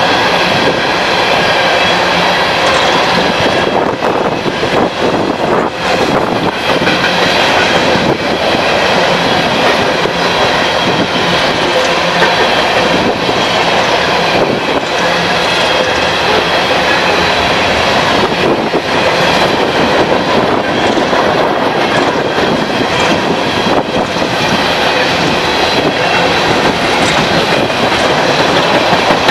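Train rolling past close by: a steady, loud rush of steel wheels on rail with irregular clicks over the rail joints and a faint high wheel squeal.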